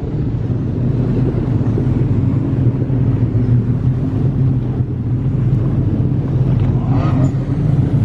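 Jet ski engines idling steadily with a low, even hum.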